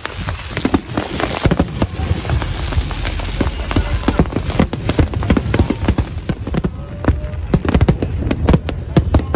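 Aerial fireworks going off in quick succession: a dense, loud run of bangs and sharp pops, many each second, with deep booms underneath.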